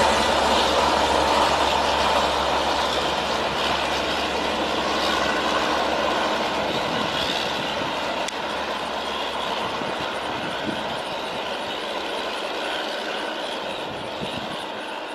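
Passenger train's coaches rolling away along the track, the wheel-on-rail rumble fading slowly as the train recedes.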